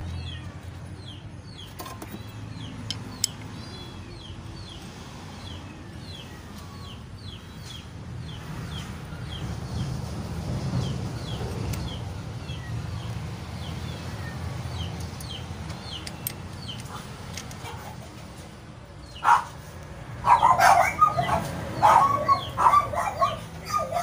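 Birds chirping over and over in short high calls, over a steady low hum, with a louder run of irregular sounds in the last few seconds.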